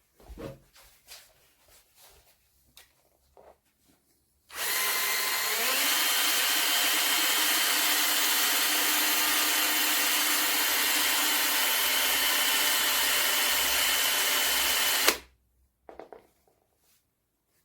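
Bosch EasyImpact 18V-38 cordless drill running: a few light handling clicks, then the motor starts about four seconds in, steps up to a higher speed a second later, runs steadily for about ten seconds and stops suddenly.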